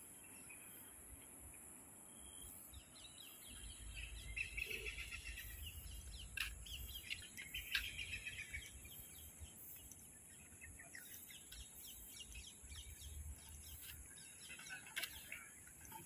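Birds chirping and calling in trees, busiest from about four to nine seconds in, over a steady high hiss, with a low rumble coming and going underneath.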